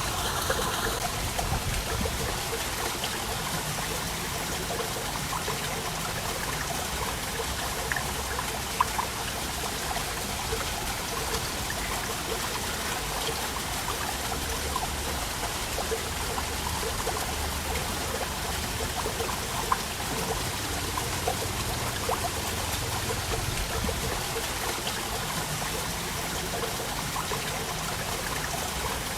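Waterfall water falling and splashing in a steady rush, with scattered sharper splashes and drips standing out now and then.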